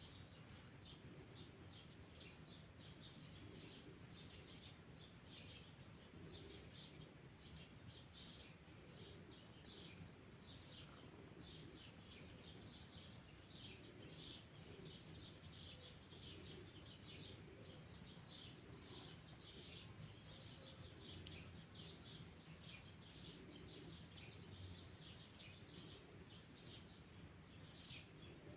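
Faint bird chirps: many short, quick calls, each dropping in pitch, repeating all through, over a low steady rumble of outdoor background noise.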